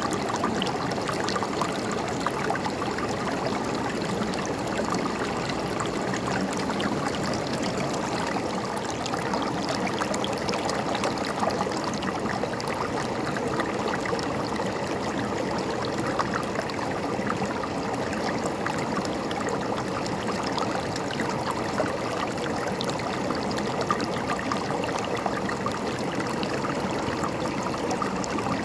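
River water running steadily over rocks, a continuous rushing and babbling.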